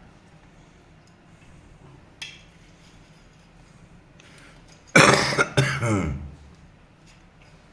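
A person coughs twice in quick succession about five seconds in, loud against faint handling noise. A single small click comes a couple of seconds earlier.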